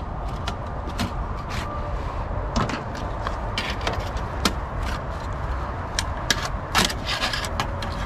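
Plastic parts of a large printer clicking and knocking as they are worked loose by hand at their plastic snap fasteners, irregular clicks throughout over a steady low rumble.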